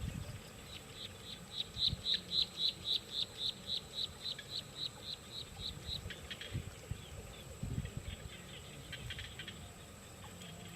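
A rapid series of high chirps from a small animal, about four a second for some five seconds, then fading into softer scattered clicks.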